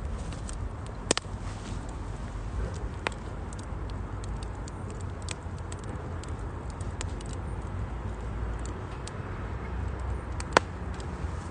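Firewood burning in a Uniflame Nature Stove Large, a compact chimney-draft wood stove, crackling and popping over a steady low rumble. Two sharper pops stand out, about a second in and near the end.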